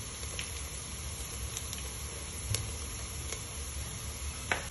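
Onions frying in ghee in a clay pot, a soft steady sizzle with a few faint crackling ticks and one sharper tick near the end.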